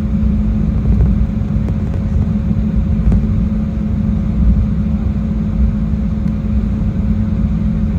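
Airliner cabin noise: a steady, loud low rumble of jet engines and airflow, with a faint steady hum above it.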